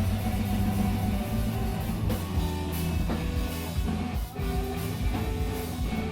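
Live screamo band playing: distorted electric guitars ringing out held notes over bass and drums, with a brief drop in the sound about four seconds in.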